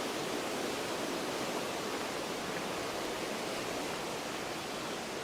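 Steady rush of a fast mountain river running high with snowmelt, an even roar of water.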